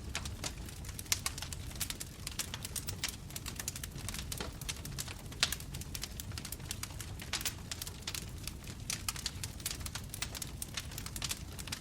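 Bonfire crackling: many irregular sharp pops and snaps over a low steady rumble of the flames, with two louder snaps about a second in and near the middle.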